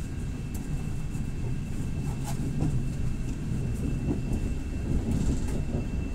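Inside a moving passenger train: the steady low rumble of the carriage running along the track, with a few light clicks from the wheels and a faint steady high tone.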